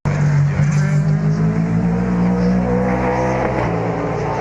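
Race car engines running at speed on the circuit, their pitch climbing gently, then dropping about three and a half seconds in.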